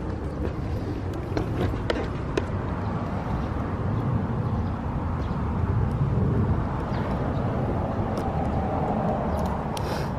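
Steady low rumble of outdoor traffic, swelling a little in the middle, with a few faint clicks.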